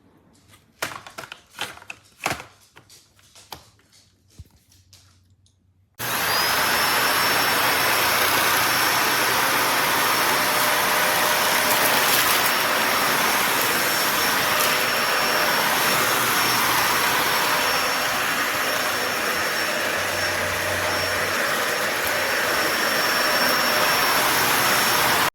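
A few clicks and knocks, then about six seconds in a Dyson Ball Animal 3 Extra upright vacuum cleaner switches on: a high motor whine rises quickly to a steady pitch over a loud rush of air. It runs steadily and then cuts off suddenly.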